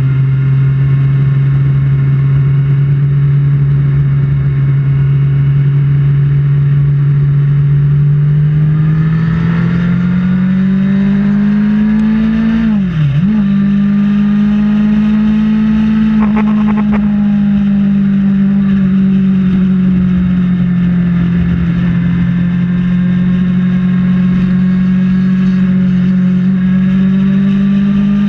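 Kawasaki Ninja ZX-6R's inline-four engine running under way on the highway. Its revs hold steady, climb about ten seconds in, dip sharply and briefly, then hold at a higher pitch and rise again near the end.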